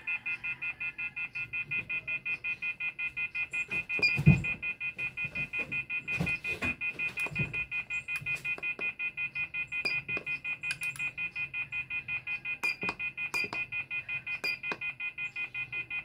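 Rapid electronic beeping, about five beeps a second, with a knock about four seconds in and a few fainter clicks.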